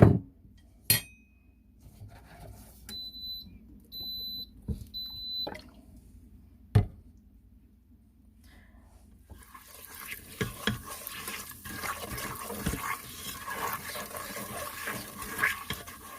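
Russell Hobbs electric cooking pot beeping three times, about a second apart, as its controls are set to sauté, with a few sharp clicks around them. About nine seconds in, oil and curry powder start sizzling in the heating pot.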